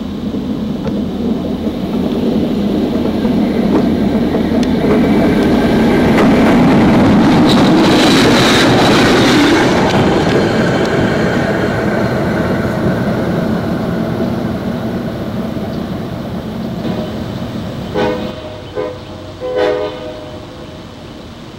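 Diesel train rolling over the track, its rumble and wheel noise building to a peak as it passes right over the rails and then fading away. Near the end the train horn sounds in three short blasts.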